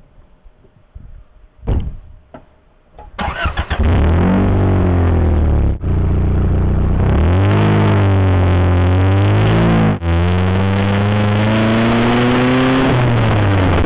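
A couple of sharp clicks, then a car engine starts about three seconds in and pulls away, its note rising as it speeds up and dropping back sharply twice at gear changes, about six and ten seconds in.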